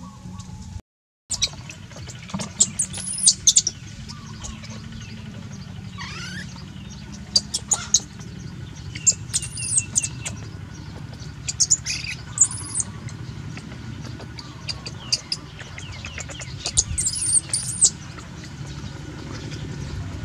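Small birds chirping: short, high, arched chirps in a few clusters, over a low steady hum with scattered light clicks.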